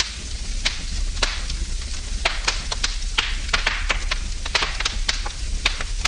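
Wood fire burning in a fireplace, crackling and popping irregularly, several sharp pops a second over a steady hiss and low rumble of the flames.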